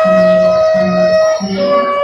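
Instrumental music with guitar: a long held melody note that steps down to a lower note about one and a half seconds in, over a low note repeating in a steady beat.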